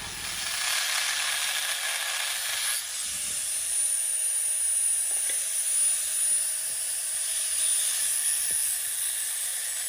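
A steady hiss, with a faint high whine running through it.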